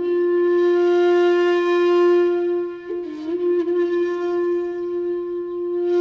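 Shakuhachi bamboo flute holding a long, steady note, with breath audible in the tone. About three seconds in it bends and settles on a slightly lower held note.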